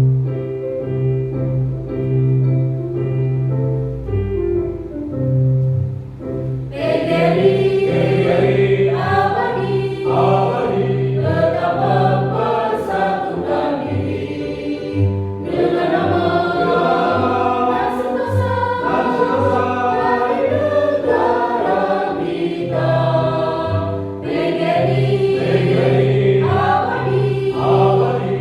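A choir singing in parts over an instrumental accompaniment with a steady bass line; the singing becomes fuller and louder about seven seconds in.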